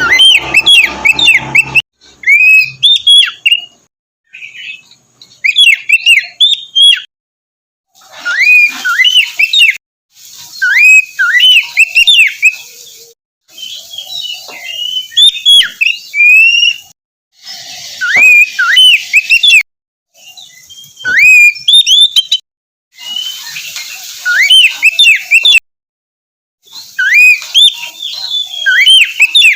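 Oriental magpie-robin (kacer) singing: loud, quick phrases of whistled notes that sweep up and down, in bursts of one to two seconds with brief gaps.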